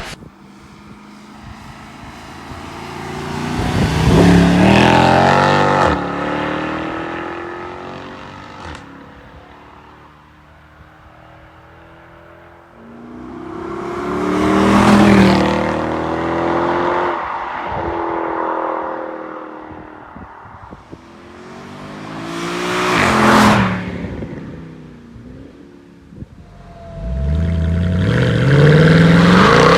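Mercedes-Benz C63 AMG's 6.2-litre V8 on its stock exhaust, accelerating hard past the listener three times, each time rising in pitch and loudness and then fading away. It starts accelerating again near the end.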